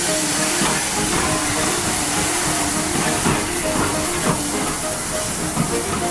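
Steam locomotive standing with steam hissing steadily, with a few light clicks.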